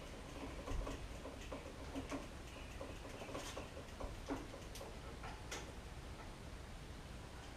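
Scattered light clicks and ticks at an irregular pace, with a low background rumble: small handling noises of hands working with tape and parts.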